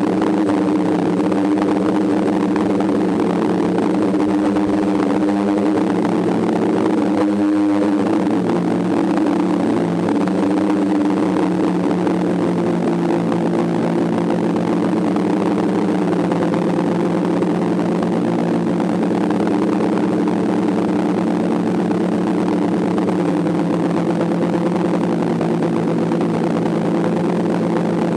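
DJI F550 hexacopter's six electric motors and propellers humming steadily in flight, with a brief wavering in pitch about seven and a half seconds in.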